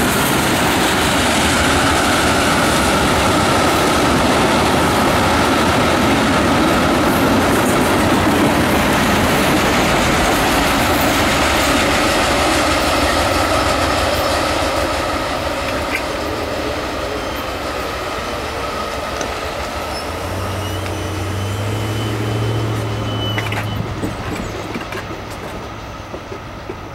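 Tank cars of a long freight train rolling past, a steady rumble and clatter of steel wheels on the rails with a faint high wheel whine, fading after about halfway as the last car passes and moves away. A low hum comes in about three quarters through.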